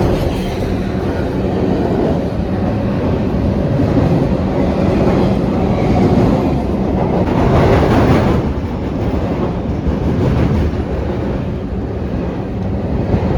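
A train passing on the tracks overhead, its cars making a loud, steady rumble heard from the underpass beneath.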